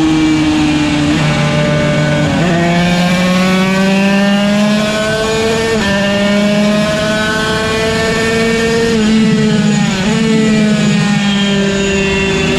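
Yamaha TZ125's 125 cc two-stroke single engine at race speed, winding up through the gears with a sharp gear change about two and a half seconds in and another near six seconds. Around nine to ten seconds the pitch drops in a few quick steps as it shifts down, then it climbs again.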